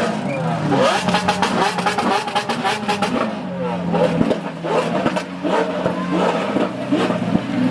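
Supercar engines running amid a crowd's chatter, with a quick run of sharp cracks over the first few seconds.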